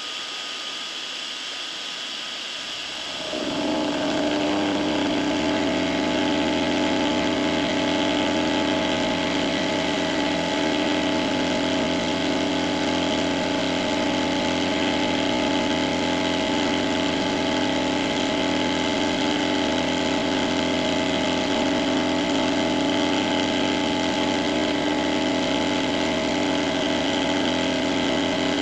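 Benchtop machine tool running steadily through a cutting pass on an aluminium workpiece; about three seconds in it gets louder and settles into a steady motor hum.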